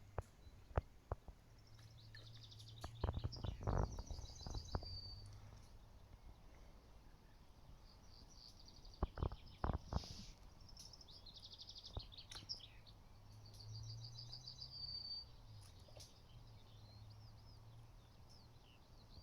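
Small songbirds singing in the background: repeated fast trilled songs, each ending on a clear note, heard twice. Several dull knocks and thumps, loudest around four seconds in and again around nine to ten seconds in, over a faint steady low rumble.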